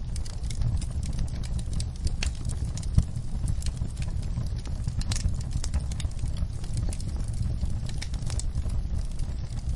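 Wood fire crackling, with scattered sharp pops over a low steady rumble. The loudest pop comes about three seconds in.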